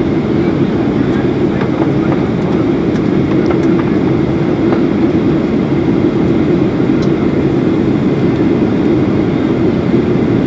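Steady cabin noise of a Boeing 737-800 in flight: the drone of its two CFM56-7B24 turbofans and the rush of airflow heard from inside the passenger cabin, unchanging in level.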